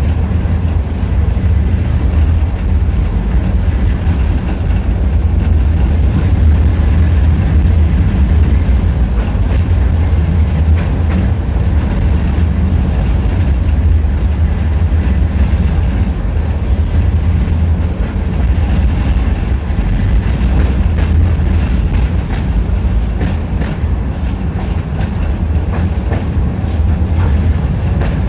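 Tram running along its rails, heard from inside the passenger car: a steady low rumble with scattered clicks of the wheels over the track.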